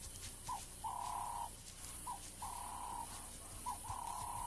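A bird calling over and over: a short note followed by a longer, steady hooting note, the pair repeating about every second and a half.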